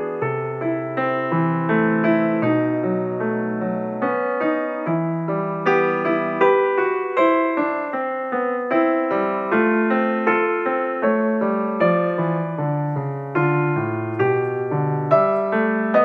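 Background piano music: a slow run of struck notes over sustained chords, each note fading after it is played.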